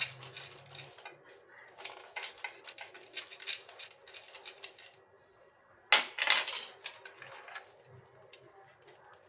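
A knife cutting through a crisp deep-fried samosa-pastry pocket: a run of small crunching crackles, then a louder burst of crunching about six seconds in.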